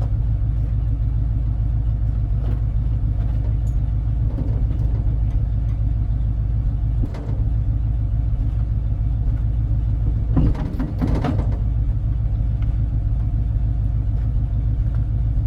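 1984 tow truck's engine idling steadily, with a brief louder clatter about ten and a half seconds in.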